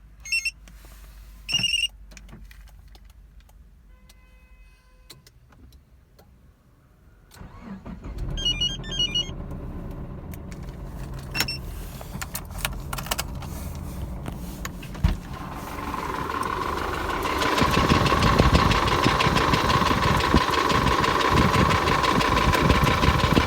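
Subaru boxer engine started with dashboard warning chimes, then running with the characteristic knock that has appeared at 247,000 km; the engine grows louder about two-thirds of the way in.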